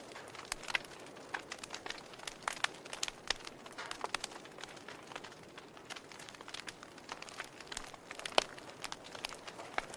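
Wood fire in a fireplace crackling: irregular sharp pops and snaps over a soft steady hiss, with one louder pop near the end.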